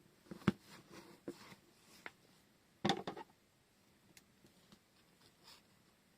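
Hands handling craft items on a tabletop: scattered soft knocks and rustles, with a sharper double knock about three seconds in.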